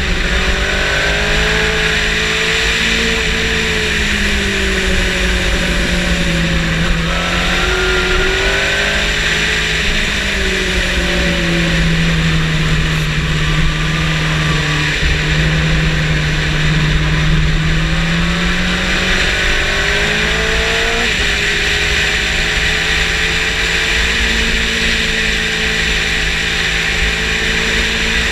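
Motorcycle engine at speed under heavy wind rush, as heard from the bike itself; its note falls and rises in long sweeps and jumps suddenly a couple of times.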